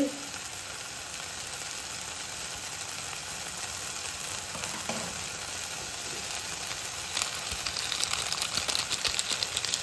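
Onion-tomato masala sizzling and frying in a stainless steel pan, a steady hiss that turns busier and crackly from about seven seconds in.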